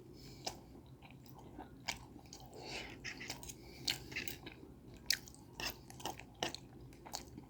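Close-up mouth sounds of a person chewing food: irregular wet smacks and clicks.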